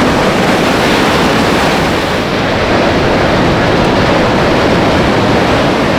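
Atlantic ocean surf washing and breaking, a loud, steady rush, with wind on the microphone.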